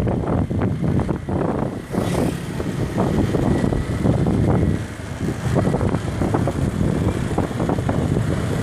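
Motorbike riding along a road: engine and road noise with wind buffeting the microphone.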